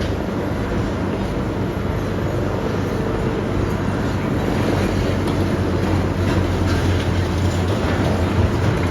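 Demolition machinery running steadily with a low engine hum under a dense rumbling clatter, growing a little louder about six seconds in.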